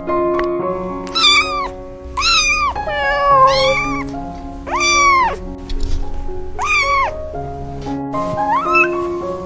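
A cat meowing over background music with long held notes. There are about five drawn-out meows, each rising and then falling, and shorter rising mews near the end.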